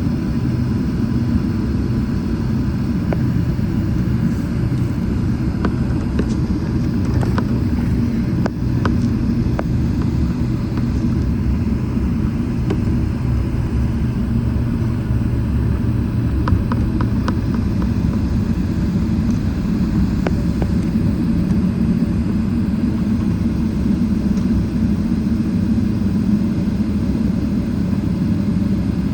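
Steady, even low rumble of a Boeing 777-300ER's General Electric GE90-115B jet engines running, with a few faint clicks over it.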